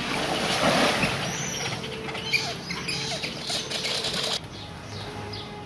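Shorebirds calling, short high arched calls, over a steady rushing noise with scattered clicks. The sound drops off abruptly about four seconds in.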